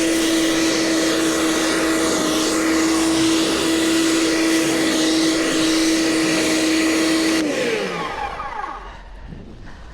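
Snow blower running steadily with a strong whine, then shut off about seven and a half seconds in, its pitch falling as it winds down and stops.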